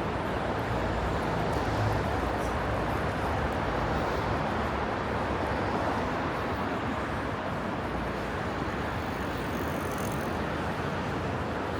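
Steady road traffic noise: cars running along a wide city street, a continuous hum with no single pass or horn standing out.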